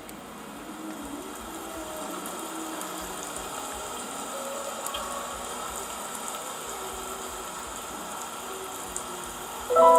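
Steady rain-like hiss, a rain sound effect played as the intro to the song, with faint crowd voices under it. Near the end a loud piano chord strikes and rings on, opening the music.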